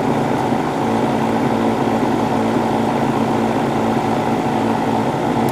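Hobby airbrush compressor running with a steady electric-motor hum.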